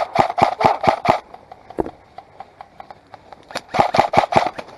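Airsoft guns firing in a rapid string of sharp cracks, about six a second for the first second or so, then scattered single shots, then another rapid string about three and a half seconds in.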